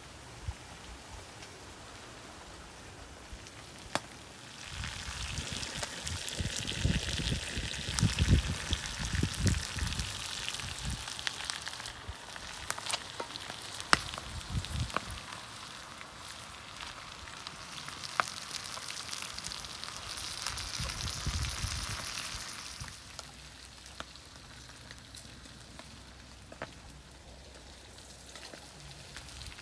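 Duck offal sizzling in a frying pan, stirred with long bamboo chopsticks that knock against the pan. The sizzle swells about five seconds in and dies down after about twenty-three seconds, with a few sharp clicks along the way.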